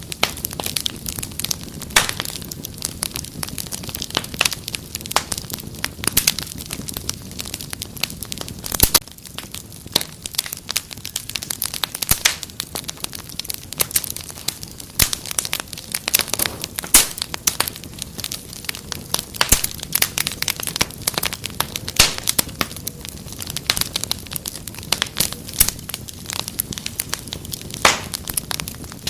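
Wood fire crackling steadily, with many sharp irregular pops and snaps several times a second over a low hiss.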